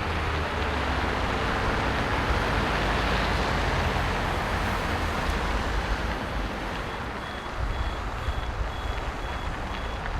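A heavy vehicle's engine running with a steady rumble. About seven seconds in, a reversing alarm starts up with evenly spaced high beeps.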